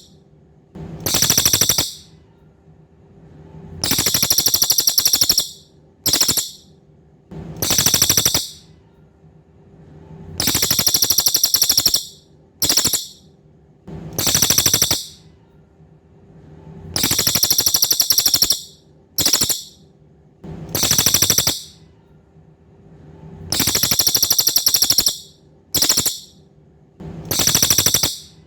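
A cililin songbird singing in full voice: high-pitched, buzzy, rapidly pulsed trills in phrases of one to two seconds. Many phrases are followed by a brief extra burst, and the pattern repeats every few seconds.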